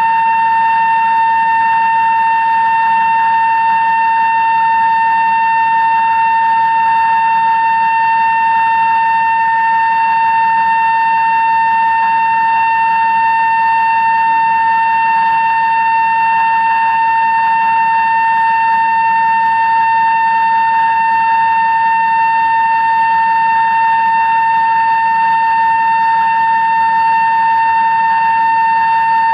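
2-inch Kennametal drill cutting through 316 stainless steel in a CNC machine: a steady, unchanging high whine with overtones over a low machine hiss.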